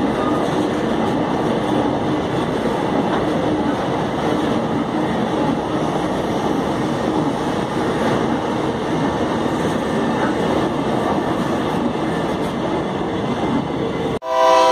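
A long string of empty iron-ore wagons rolling past on the track with a steady rumble and clatter. Near the end the sound cuts off abruptly and a locomotive horn starts sounding.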